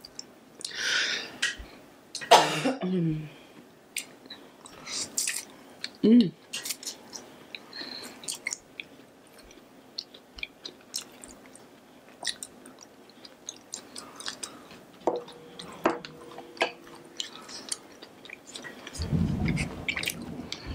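Close-miked eating of noodles: wet chewing with many small mouth clicks and a few louder slurps in the first few seconds. Near the end there is a low rustle.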